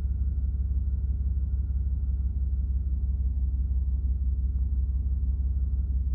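Steady low mechanical rumble with a fine even pulse and a faint steady high whine above it.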